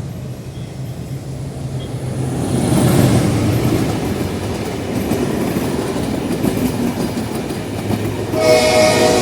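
A train approaches and runs past with a rising rumble of wheels on the rails. About eight and a half seconds in, the locomotive's multi-tone horn starts and holds: a General Electric diesel locomotive.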